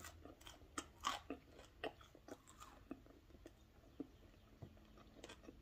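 Close-miked chewing of food: faint, irregular wet mouth clicks and soft crunches, a few a second.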